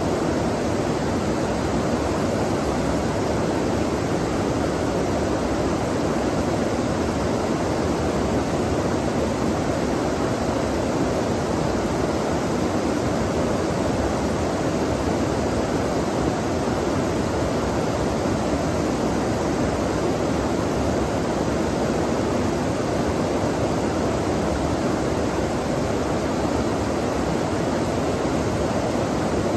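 Water flowing steadily in a stream, a constant even rush with no breaks or changes.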